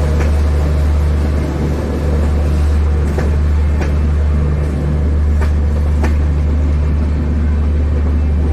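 A train running with a steady, heavy low rumble, with a few sharp clicks a little after three seconds in and again around five to six seconds in; no horn sounds.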